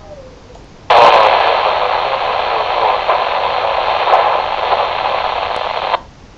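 Static hiss from a radio scanner tuned to marine-band VHF: a loud, even rush of noise starts suddenly about a second in and cuts off just as suddenly some five seconds later, as the squelch opens on a weak transmission and then closes.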